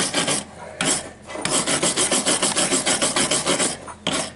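Fast back-and-forth rasping strokes on metal, about ten a second, pausing twice near the start: the rusted starter solenoid part is being scrubbed clean after it was freed from seizing.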